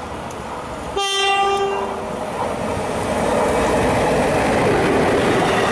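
EU07 electric locomotive sounding its horn once, a single-pitched blast of about a second, then the rumble and wheel clatter of the locomotive and its platform wagons growing louder as it runs in past the platform.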